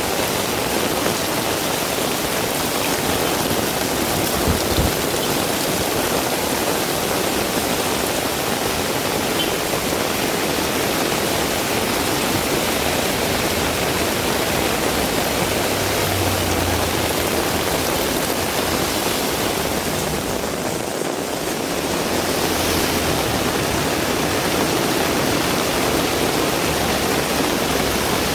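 Heavy rain pouring down steadily, a dense hiss of rainfall with a slight easing about three quarters of the way through. There is a faint low rumble now and then and a single short knock a few seconds in.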